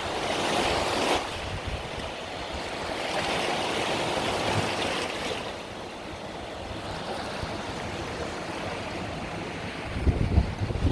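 Small Mediterranean waves breaking and washing up a beach, the rush swelling twice, with low wind buffeting on the microphone near the end.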